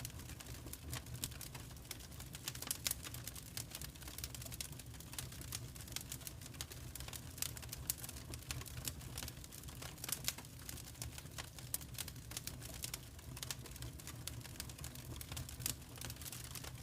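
Wood fire crackling: irregular sharp pops and snaps come in quick clusters over a steady low rumble.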